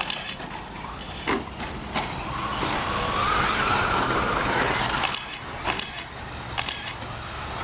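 Electric 1/10-scale RC short-course trucks racing on a dirt track. A motor whine rises in pitch and grows louder to a peak about halfway through, then fades, with a few sharp clicks and knocks.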